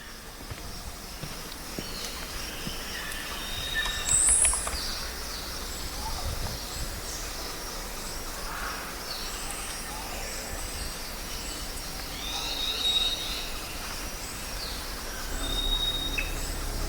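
Several birds singing and calling, short high chirps and whistles of varied pitch, over a steady outdoor background hiss.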